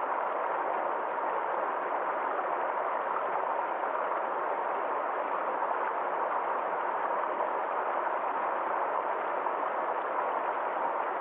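Small stream of water flowing steadily: an even, unbroken rush with no high hiss.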